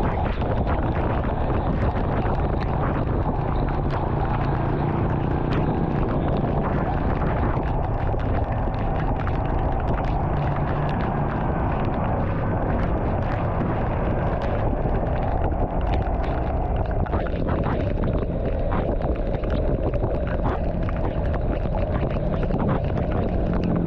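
Steady rumble of a vehicle travelling on a road in rain, with frequent small sharp ticks of rain striking over the road and wind noise.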